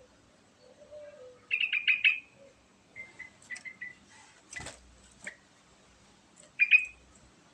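Yellow-vented bulbul singing in short bursts of quick chirps: a rapid run of about five notes near two seconds in, scattered single notes through the middle, and another quick burst near the end. A brief sharp click sounds about four and a half seconds in.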